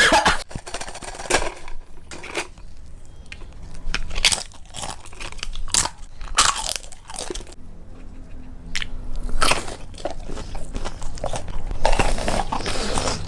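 A person eating, chewing and biting into food, with irregular sharp bites a second or so apart.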